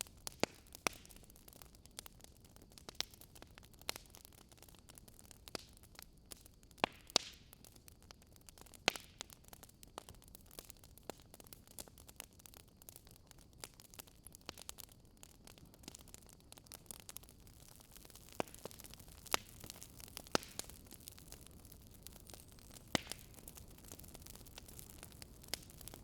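Wood fire crackling: irregular sharp pops and snaps, several close together in places, over a faint steady hiss.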